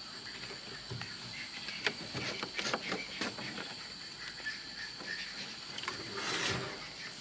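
Steady high-pitched insect chirring, like crickets, with scattered light clicks and scrapes and a brief rustling hiss near the end.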